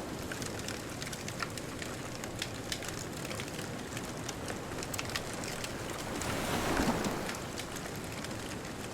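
Beach bonfire crackling, with many short sharp pops over a steady hiss, and a distant ocean wave swelling and washing in about seven seconds in.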